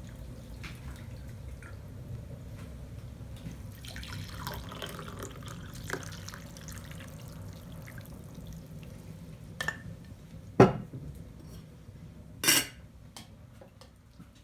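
Water dripping and trickling, with a few sharp knocks, the loudest about ten and a half seconds in.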